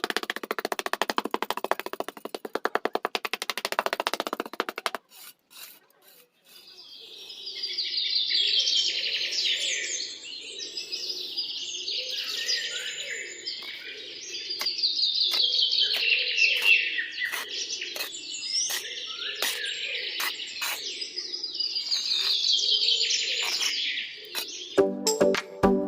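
Birds chirping in repeated bursts of song. Before the song there are about five seconds of a fast, even rattling buzz that stops abruptly, and a burst of music begins right at the end.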